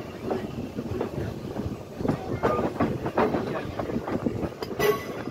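Riding aboard a slowly moving railroad car: steel wheels clattering and knocking over the rail joints as the car rattles, with a short sharp squeal about five seconds in.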